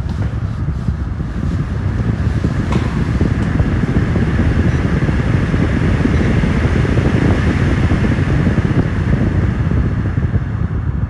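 Steady, loud low rumbling noise with no speech or music.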